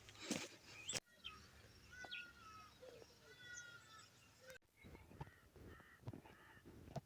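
Faint bird calls: a series of short pitched calls, with a cluster about two to three and a half seconds in and more around five to six seconds in.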